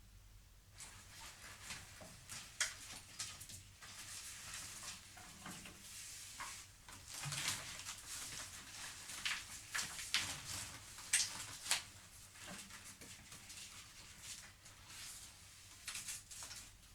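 Hands working on small parts: a scatter of irregular light clicks, taps and rustles, with a few sharper knocks around the middle.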